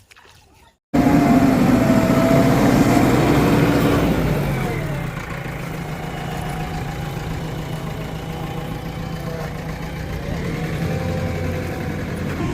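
Diesel engine of a JCB 3DX backhoe loader running, starting abruptly about a second in. It runs at higher revs for the first few seconds, then drops at about four and a half seconds to a steadier, lower level with small rises and falls in pitch.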